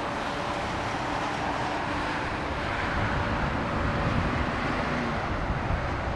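Boeing 787-9 jet engines on approach to land: a steady rushing roar with faint humming tones, growing a little louder.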